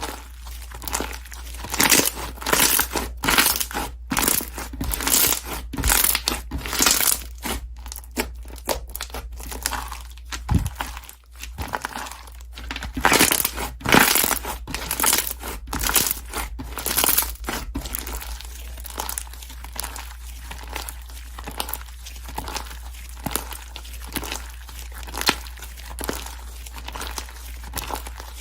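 Slime being squeezed and stretched by hand, giving dense, irregular crackling and popping. It is busiest and loudest in the first half and thins out to scattered pops later, over a steady low hum.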